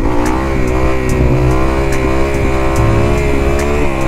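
2021 Kawasaki KX250's four-stroke single-cylinder engine held at high revs under throttle. The pitch holds fairly steady with small rises and falls, and dips briefly near the end.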